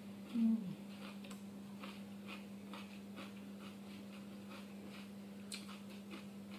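A person chewing a bite of raw cucumber with masala, faint crunching clicks scattered through, with a short 'mm' of appreciation about half a second in. A steady low hum runs underneath.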